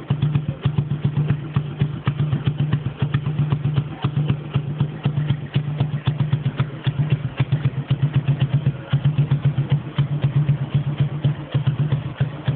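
An engine idling with a rapid, even pulse, steady throughout.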